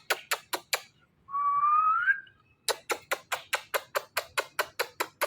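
Ringneck parrot giving one rising whistle, between runs of quick even clicks at about six a second that stop for it and then start again.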